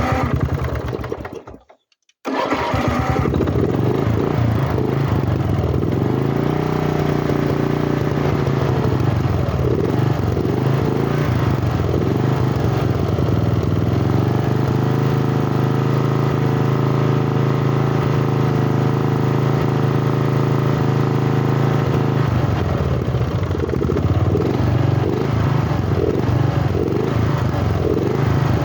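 Rebuilt lawn tractor engine running through its new exhaust. After a brief break about two seconds in, it is revved up around six seconds, held at high, steady speed, and dropped back to a lower, uneven run near the end.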